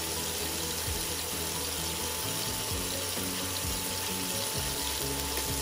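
Ground-meat burger patties sizzling steadily in hot oil in a nonstick pan, with soft background music underneath.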